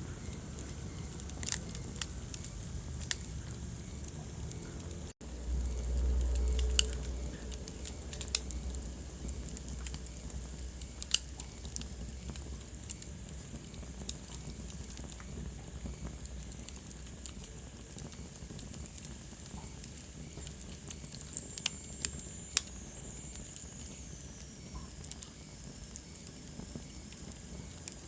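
Wood fire crackling, with scattered sharp pops and snaps over a steady low hiss and rumble. The sound drops out for a moment about five seconds in, followed by a stronger low rumble for a couple of seconds, and a faint high whistle slides down in pitch near the end.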